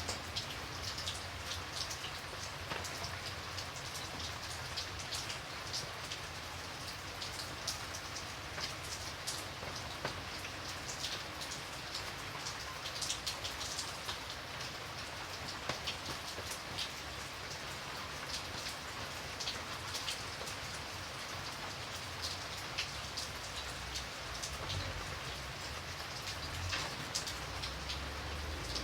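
Steady rain falling, with many individual drops tapping sharply on a surface over a constant hiss.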